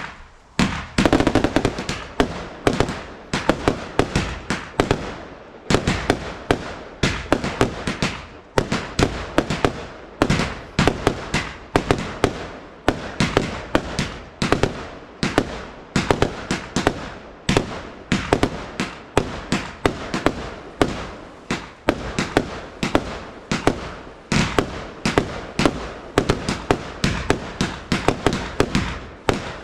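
Fireworks firing a continuous rapid barrage of bangs and crackles, several a second, with no let-up.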